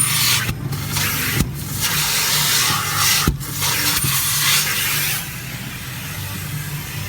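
Car wash machinery running: a steady rush of air or spray over a low motor hum, cutting out briefly a few times and easing off about five seconds in.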